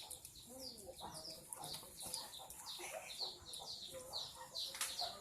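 Birds chirping: a steady run of short, falling high notes, several a second, with fainter lower calls underneath.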